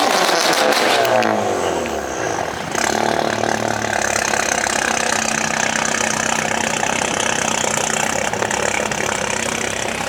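Car engines running: the engine pitch swings up and down in the first second or so, then settles into a steady drone with a hiss over it.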